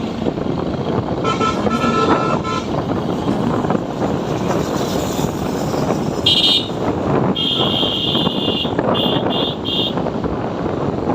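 Vehicle horns honking over steady road and wind noise from a moving motorbike. One horn sounds about a second in; later come a short toot, a longer blast of about a second, and three quick toots.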